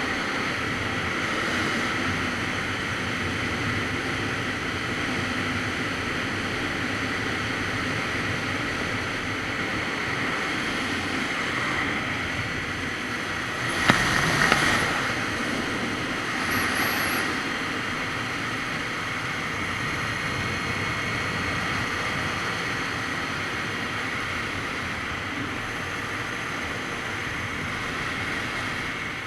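Wind noise rushing over the microphone of a Kawasaki Z900RS Cafe on the move, with the bike's inline-four engine running steadily underneath. About halfway through there is a brief louder burst, followed by a smaller one a few seconds later.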